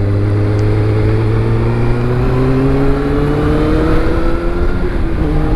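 Kawasaki Ninja ZX-6R 636 inline-four engine under way, its revs climbing steadily as it pulls through a gear, then dropping at a gear change about five seconds in.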